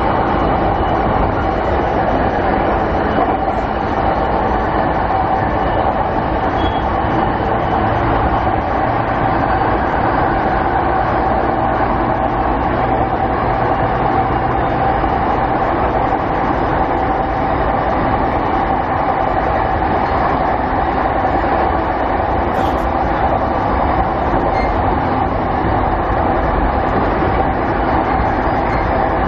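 Inside a JR 209 series 500 commuter train's motor car, running steadily at speed: even rolling and running noise with a held tone that neither rises nor falls. A single short tick about 23 seconds in.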